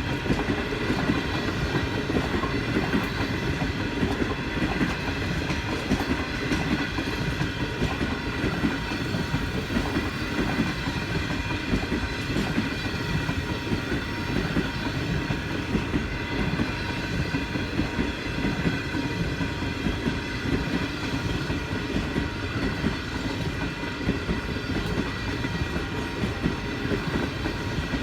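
Great Southern passenger train's carriages passing close by, their wheels clattering steadily on the track.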